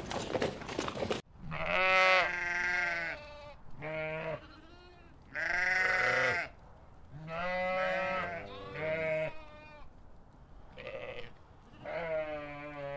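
Lamb bleating: about seven separate calls over ten seconds, with short pauses between them. A second of rough outdoor noise cuts off just before the first bleat.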